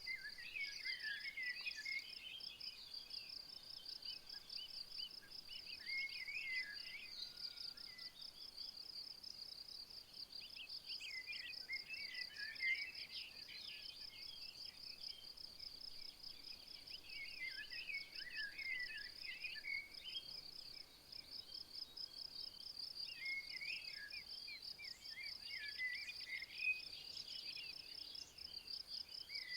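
Insects chirring steadily in a high, fast-pulsing trill, with a bird's quick twittering song breaking in in short phrases every few seconds.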